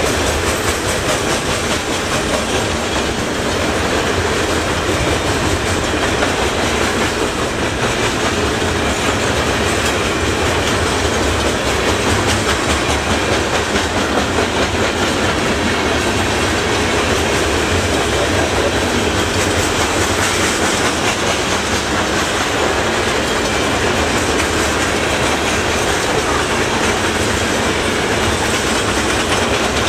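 Freight train of covered hopper cars rolling past, steel wheels clicking over rail joints in a steady, loud run of clickety-clack.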